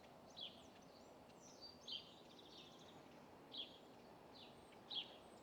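A few faint, short bird chirps, spaced a second or so apart, over quiet outdoor background noise.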